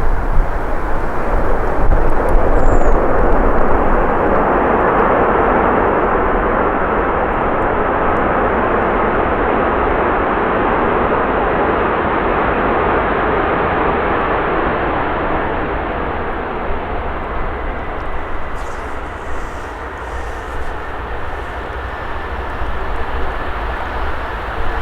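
Airbus A340-600 jet on final approach, its four Rolls-Royce Trent 500 engines passing close by. The engine noise swells, holds for about ten seconds, then slowly fades, over a steady low rumble of wind on the microphone.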